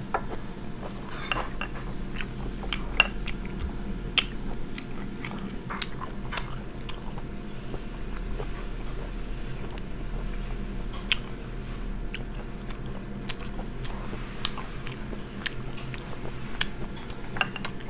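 Close-up chewing and biting of sea snail meat, wet mouth sounds with scattered sharp clicks and taps, a few louder ones standing out.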